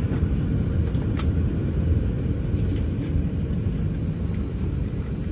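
Steady low rumble inside an Airbus A319's passenger cabin, with one faint click about a second in.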